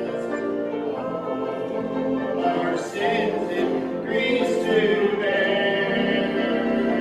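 A church congregation singing a hymn together, many voices holding long notes in a slow, steady tune.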